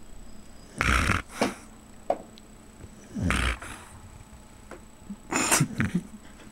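Boxer dog snoring in its sleep: three snores, one about every two to two and a half seconds.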